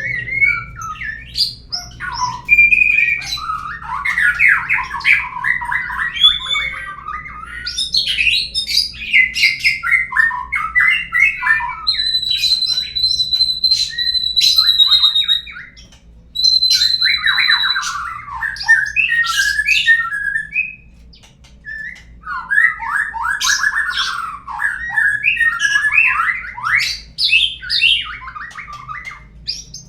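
Murai (white-rumped shama) song used as a lure to get caged birds singing: long, varied phrases of rapid chattering trills and whistles, with held high whistles about halfway through and brief pauses between phrases.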